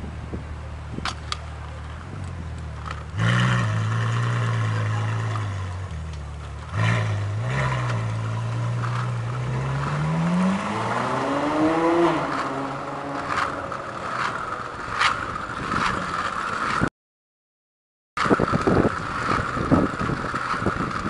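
Ferrari F12 berlinetta's V12 engine idling with a low steady note, then accelerating: the pitch rises steadily for a couple of seconds and then drops away. After a short cut, a steadier higher hum with scattered clicks follows.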